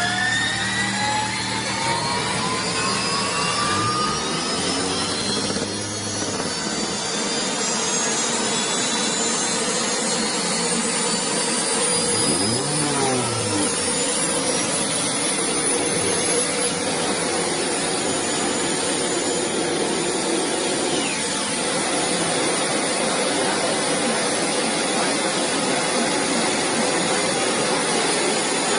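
High-speed engine running hard, its whine rising smoothly in pitch with no gear-change drops for about fifteen seconds, then holding steady over a loud rushing noise.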